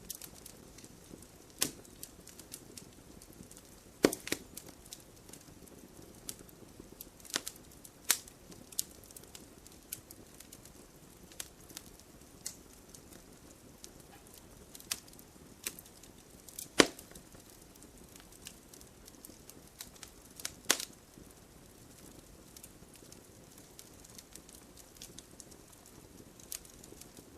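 Wood fire burning in a fireplace, crackling: irregular sharp snaps and pops over a faint steady hiss, with a few louder pops scattered through.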